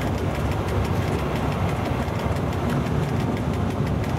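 Steady low rumble of an FS E.656 electric locomotive running along the track, heard from inside its cab.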